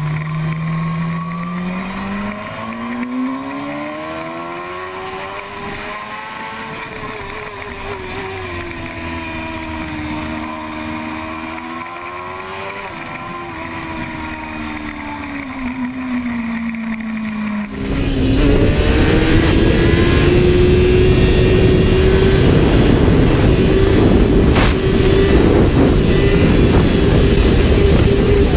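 Sport motorcycle engine accelerating with its pitch climbing, dipping, rising again and then falling away. About 18 seconds in, it cuts to a louder recording of a motorcycle engine holding a steady high pitch under a loud rushing noise.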